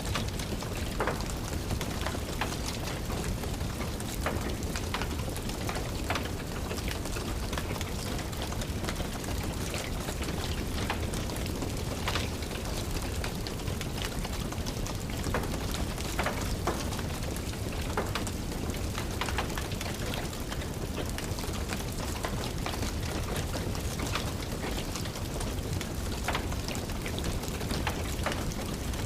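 Steady rain with a crackling wood fire: a constant rain hiss with irregular sharp pops and crackles scattered through it.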